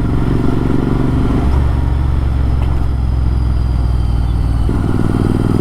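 Motorcycle engine running through an aftermarket AEW TE102 exhaust with its dB killer removed, giving a raw, unbaffled exhaust note. It runs steadily, with a deeper, heavier low note from about a second and a half in until near the end.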